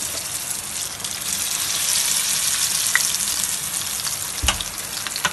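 Vermicelli-coated potato and paneer nest deep-frying in hot oil: a steady, crackling sizzle. A single thump about four and a half seconds in.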